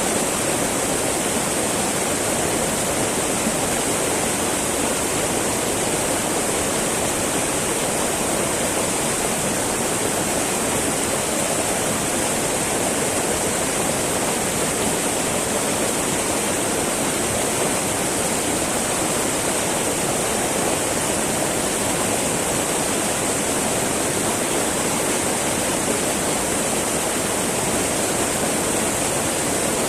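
Small mountain river babbling, a steady rush of flowing water with no pauses or changes.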